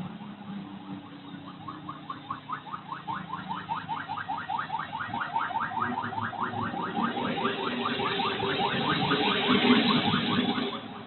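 Motorcycle with an open muffler, its exhaust note a fast, even pulsing over a low rumble, growing louder for several seconds as it comes closer and falling away near the end.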